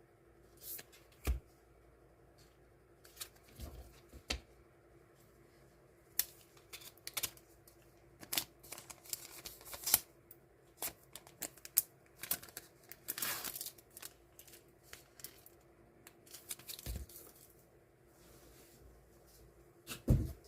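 Die-cut stickers and their paper and plastic packaging being handled: irregular crinkling and rustling with sharp little clicks, one longer rustle just past the middle, and a few soft thumps on a table.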